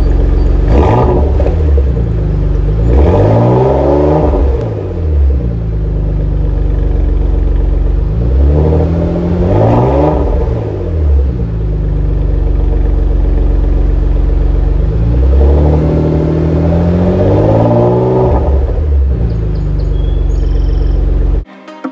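Porsche Macan GTS twin-turbo V6 idling and being revved in short blips, in four groups of one to three rising and falling revs with steady idle between them. The engine sound cuts off suddenly near the end.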